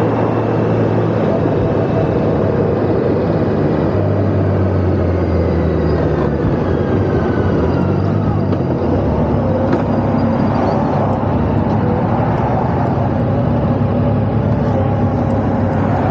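Motorcycle engine running steadily while under way, heard over wind and road noise; the engine note shifts about four seconds in.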